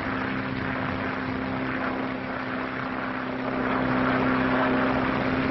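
Propeller airplane engines droning steadily in flight, growing louder a little past halfway.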